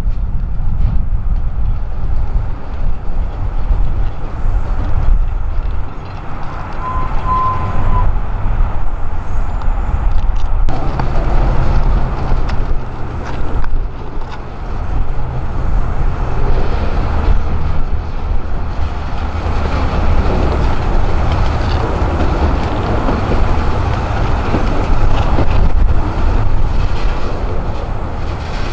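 Diesel freight train locomotives running with a heavy low rumble, their engine note strengthening about ten seconds in as the train draws nearer.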